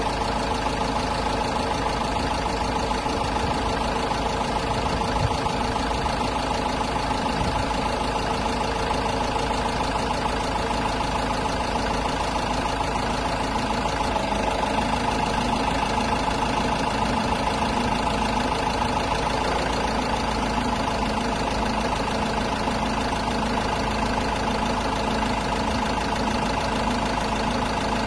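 Iveco Daily 35S13 diesel engine idling steadily, with no change in speed.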